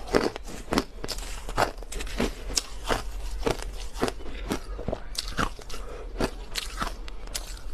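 Crushed ice being bitten and chewed close to the microphone: a steady run of sharp, crisp crunches, about two a second.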